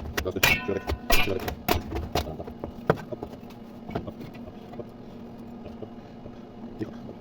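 Steel pieces knocking and clinking, a quick run of sharp hits with brief ringing in the first few seconds, then a few sparser ones, over a steady low hum.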